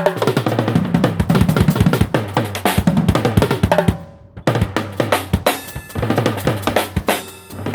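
Drum kit played live in a busy, fast pattern of hits over sustained low notes from an amplified instrument. The playing breaks off briefly about four seconds in, then picks up again.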